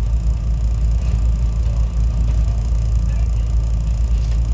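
Inside a SEPTA Regional Rail electric passenger car: a steady low rumble of the train in service.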